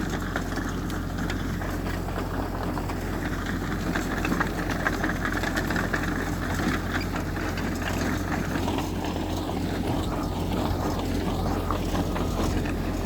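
Diesel engine of heavy earthmoving machinery running steadily with a low drone.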